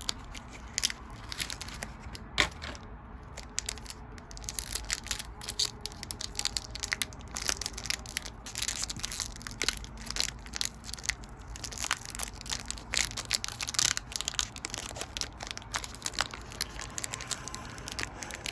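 Foil Pokémon booster pack wrapper being crinkled and torn open, with card handling. A dense run of irregular crackles and crinkles, sparse at first and much busier from about four seconds in.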